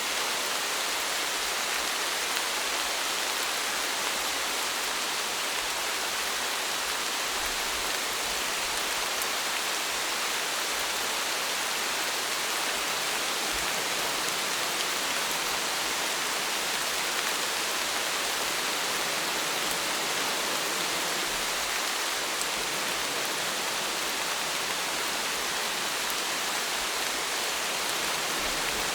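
Steady rain falling, an even continuous hiss with no separate drops or other events standing out.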